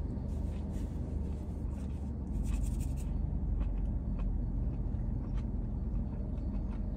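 A person chewing a mouthful of grilled flatbread sandwich, with faint wet clicks and smacks and a brief scratchy rustle about two to three seconds in, over a steady low rumble inside a car.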